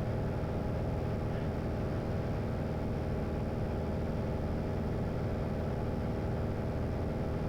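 Single-engine light airplane's piston engine and propeller droning steadily in flight, heard from inside the cabin, with an even, unchanging pitch.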